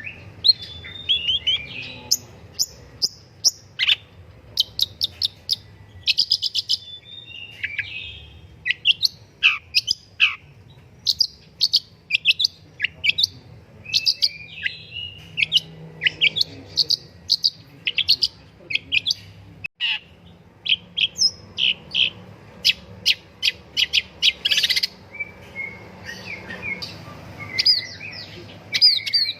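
Long-tailed shrike singing a fast, varied song of sharp chirps and short trills in quick runs broken by brief pauses, with a few falling notes mixed in.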